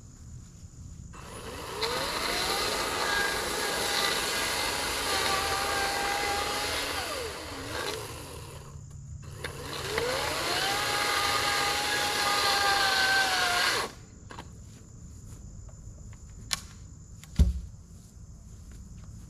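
Reciprocating saw (Sawzall) cutting through the nailed wooden framing in two long runs, the motor spinning up, holding steady and winding down each time. A single heavy thump follows near the end.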